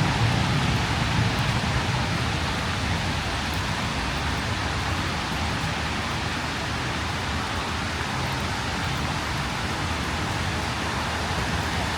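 Steady rain falling on a city street, an even hiss, with a low rumble, likely traffic, that eases in the first couple of seconds.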